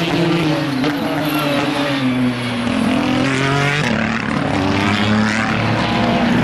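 Race car engines at high revs as cars run past, with several engine notes overlapping. One note climbs in pitch and drops sharply about four seconds in, a gear upshift, then climbs again.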